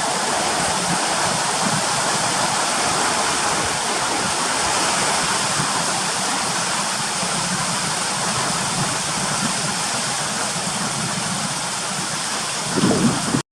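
Steady heavy monsoon rain hissing. A brief louder bump comes near the end, just before the sound cuts off.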